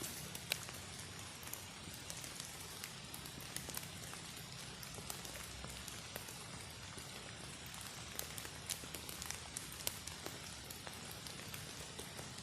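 Rain pattering steadily, with many irregular sharp drip ticks over a continuous hiss.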